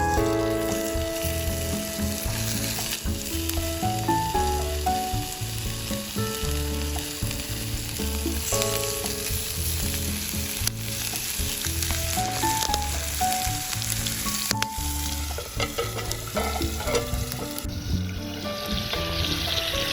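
Steak sizzling as it fries in a skillet, a steady crackling hiss, with background music playing alongside.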